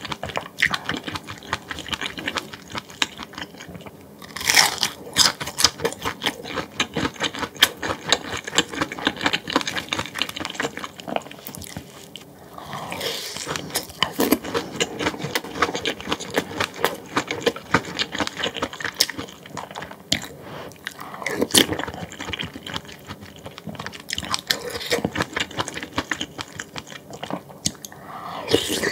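Close-miked eating: chewing and crunching mouthfuls of food, a dense run of crackly clicks and smacks.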